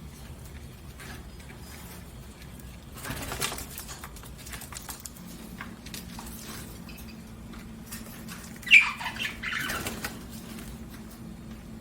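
Pet budgerigars: a brief rustling burst about three seconds in, then a single sharp chirp near nine seconds, the loudest sound, followed at once by another short rustle.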